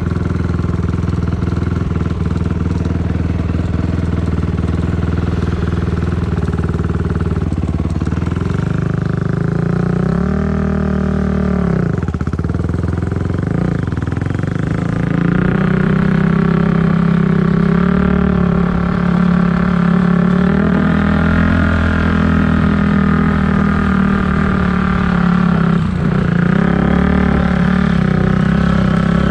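Dirt bike engine running while riding. Near the middle the pitch swings down and back up as the throttle is rolled off and on, then it holds steadier at higher revs, a little louder.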